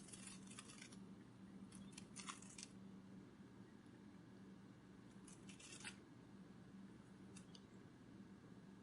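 Faint butterfly wing-flutter sound effect: groups of quick, crisp clicks in four short bursts, the longest near the start and around two and five and a half seconds in, over a low steady hum.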